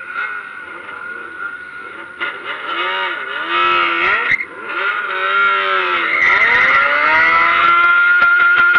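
Motorcycle engine revved hard several times, its pitch dropping and climbing again with each blip, then held at high revs near the end.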